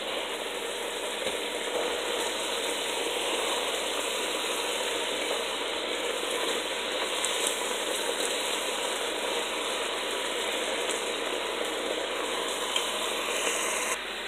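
Sliced chicken frying in a pan: a steady sizzling hiss with fine crackle while it is stirred with a silicone spatula. The sizzle drops away near the end.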